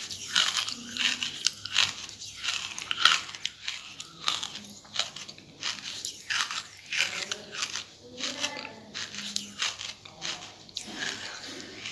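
A person chewing and crunching charcoal, with many irregular crisp crunches in quick succession.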